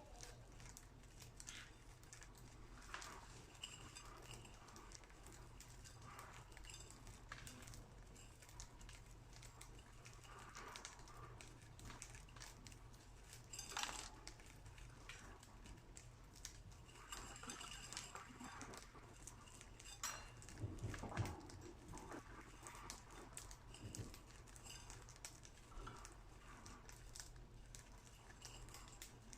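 Budgerigars pecking millet seeds from a dish: faint, scattered clicks and taps of beaks on seed and dish.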